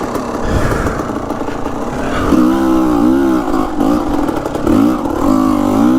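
Dirt bike engine revving under the rider's throttle, its pitch rising and falling again and again from about two seconds in, over steady rough riding noise.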